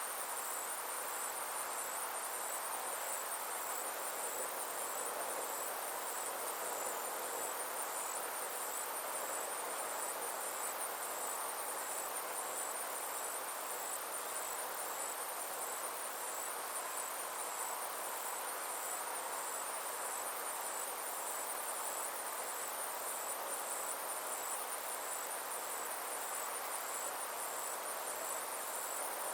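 Insects chirring steadily, a high, evenly pulsed trill that never breaks, over a soft steady hiss.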